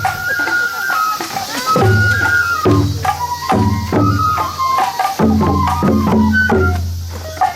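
Japanese festival music accompanying a shishimai lion dance: a high melody that moves in steps over steady, repeated drum beats.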